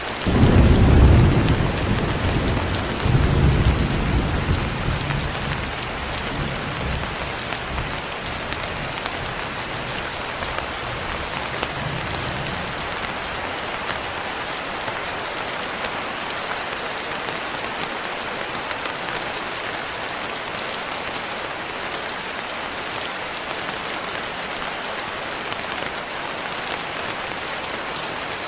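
Steady rain hissing, with a roll of thunder breaking in right at the start, swelling again about three seconds in, and rumbling away over the next several seconds.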